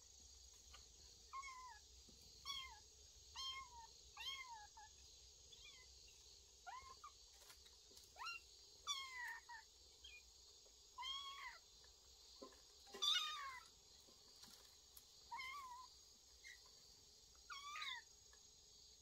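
Kittens meowing, about a dozen short high-pitched mews at intervals of a second or two, each falling in pitch, with one louder call about two-thirds of the way through.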